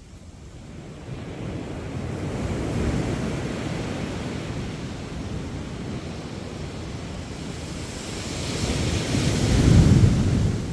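Sea waves breaking and washing up the shore of the Andaman Sea. The surf swells twice, the second wave breaking loudest near the end before the sound falls away.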